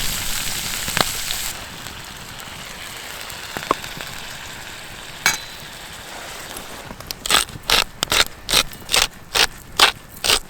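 Food sizzling in a pan, cut off abruptly about a second and a half in. A few light clicks and a small metallic clink follow, then a regular series of about a dozen short crunching strokes near the end.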